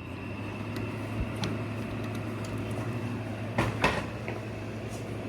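1996 GE window air conditioner running in cooling mode: a steady compressor hum under the rush of its fan, growing louder over the first couple of seconds as the compressor comes on. A couple of short clicks about three and a half seconds in.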